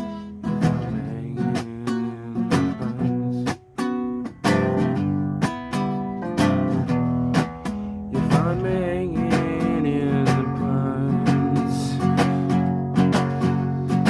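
Acoustic guitar strummed and picked in a steady rhythm: an instrumental passage between the sung lines of a song.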